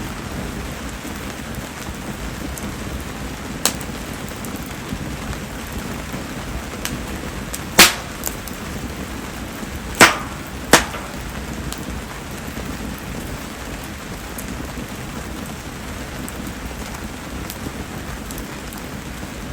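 Steady rain falling with a mayumi (spindle tree) wood bonfire burning, heard as an even hiss. A few sharp snaps stand out, the loudest about eight and ten seconds in.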